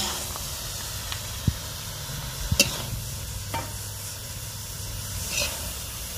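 Stir-fried genjer and shrimp sizzling in a wok while a metal spatula scrapes and scoops it out onto a plate, with a few sharp clicks of metal on the wok and plate.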